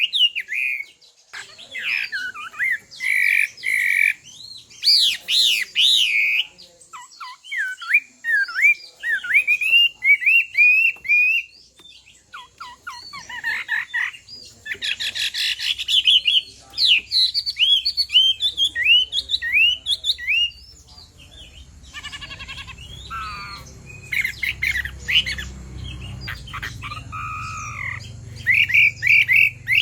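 Chinese hwamei (melodious laughingthrush) singing a fast, varied song of rising and falling whistled phrases mixed with harsh, rasping notes, in bursts with short pauses. A low rumble builds underneath in the second half.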